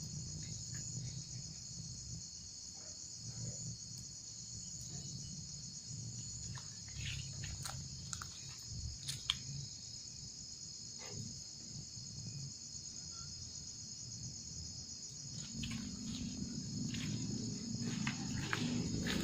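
Steady high-pitched chorus of crickets and other night insects, with scattered faint clicks. A low rumble builds over the last few seconds.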